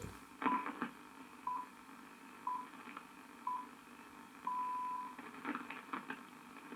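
BBC Greenwich Time Signal pips on Radio 4 long wave, heard through a Grundig Satellit 2100 valve radio's loudspeaker: four short pips one second apart, then a longer final pip marking the hour. A few faint crackles of reception noise come in around them.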